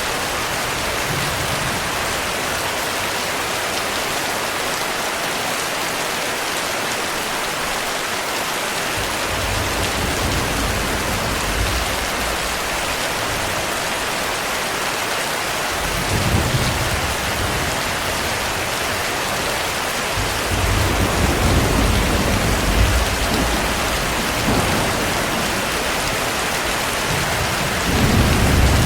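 Steady heavy rainfall hissing, with low rolls of thunder rumbling several times, the longest and strongest about two-thirds of the way through and another near the end.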